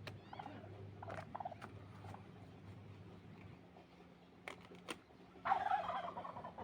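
Small animal calls: a short wavering call about a second in and a louder, longer one about five and a half seconds in, with scattered clicks between them.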